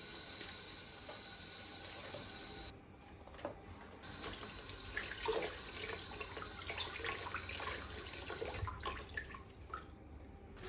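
Water running from a tap into a sink, a steady flow at first, then irregular splashes and small knocks as things are handled under the water.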